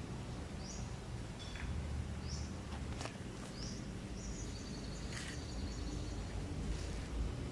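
Small birds giving short, high, rising chirps every second or so over a low steady rumble of background noise, with a couple of faint clicks.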